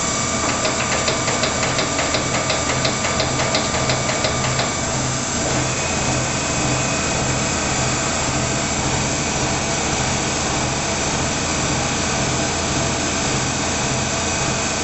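Monarch 20 x 54 engine lathe running, with a fast, regular ticking of about five clicks a second that stops about four and a half seconds in, leaving a steady mechanical hum.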